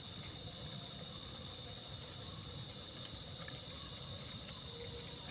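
Crickets chirping at night: a steady high trill with a few short, higher chirps scattered over it.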